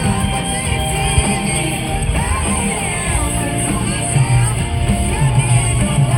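Live rock band music heard from the crowd at a concert, loud and continuous, with singing over it.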